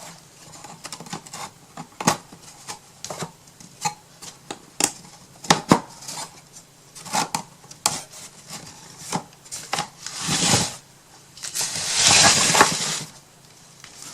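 Small wooden toolbox parts being handled and fitted together: irregular sharp clicks and knocks of wood on wood, with two longer hissing scrapes near the end.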